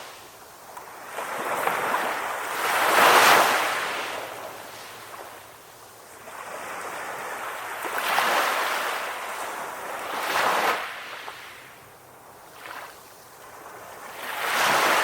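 Sea waves breaking and washing up on a shore: the surf hiss swells and fades four times, loudest about three seconds in.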